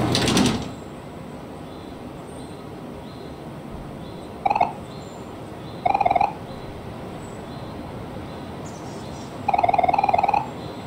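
A loud rush of noise in the first half-second, then an animal call repeated three times, each a fluttering trill: two short ones, then a longer one near the end.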